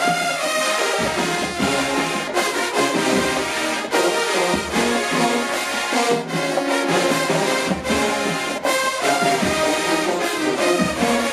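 HBCU show-style marching band playing: a full brass section of trombones and trumpets carrying the tune over drums, with sharp percussion hits on the beat.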